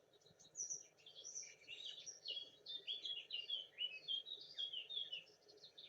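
Faint songbird chorus: a quick run of short high chirps and little downward-sliding notes, several each second, over a soft background hiss.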